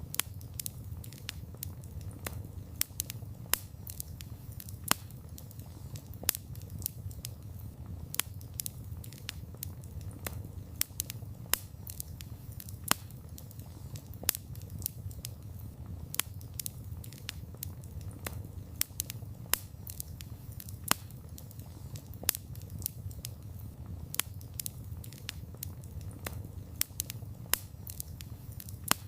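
Wood campfire crackling, with frequent irregular sharp pops and snaps over a steady low sound of burning.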